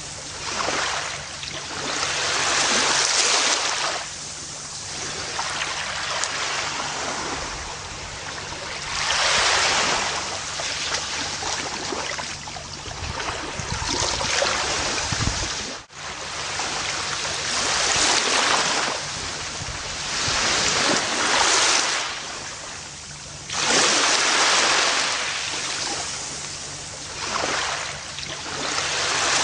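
Gentle ocean waves breaking and washing up a beach, each surge swelling and fading every few seconds. The sound drops out for an instant about halfway through.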